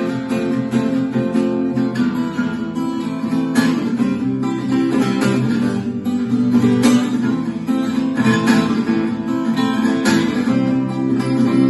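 Acoustic guitar strummed in an instrumental passage after the vocal line, with steady chords and a strong downstroke every second or two.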